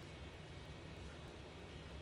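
Faint steady background noise: a low hum and hiss with no distinct event.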